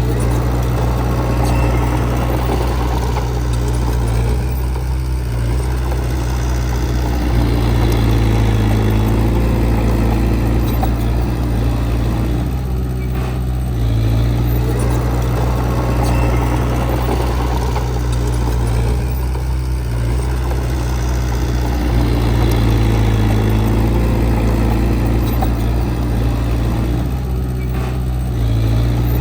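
Diesel engine of heavy earthmoving equipment running steadily, its low engine note changing a few times as the load shifts.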